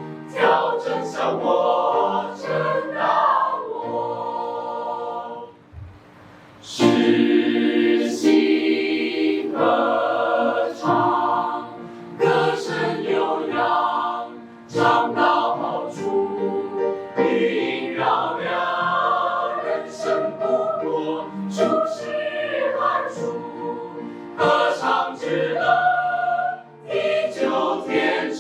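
Choir singing in several parts, with a brief pause about six seconds in before a loud full entry.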